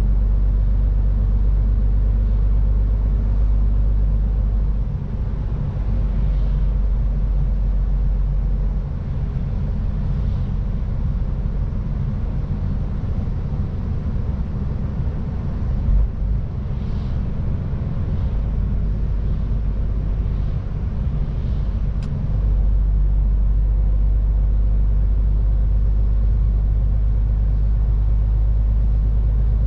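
Low, steady drone of a MAN TGX 18.510 semi-truck's 12.4-litre inline-six diesel and its road noise while driving. The deepest drone eases and turns uneven for much of the middle, then comes back strongly, with a short knock in between.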